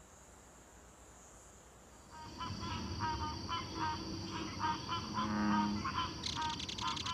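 Wild animal calls in a swamp: rapid repeated calls over a steady high whine, starting about two seconds in after a quiet start. A dense high buzzing chorus joins near the end.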